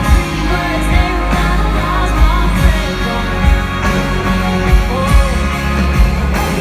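Live pop-rock band playing a slow song, with drums keeping a steady beat under a wavering sung or played melody.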